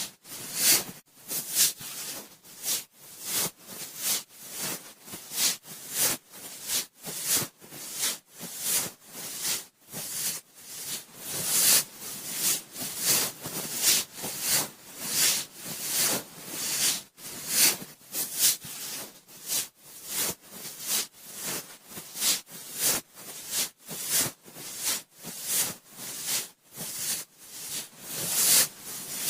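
Cotton swab swirling and rubbing in the ear of a binaural microphone: a close, scratchy rustle coming in quick repeated strokes, a little under two a second.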